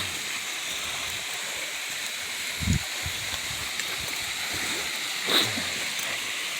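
Waterfall rushing steadily over the rock ledges, an even hiss of falling water. Two brief faint sounds stand out over it, one a little under halfway through and one near the end.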